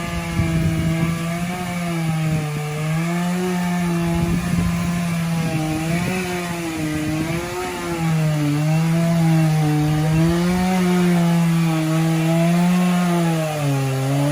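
Two-stroke chainsaw cutting through oak logs, its engine note wavering up and down as it bogs in the wood and picks back up, with the rough rasp of the chain in the cut.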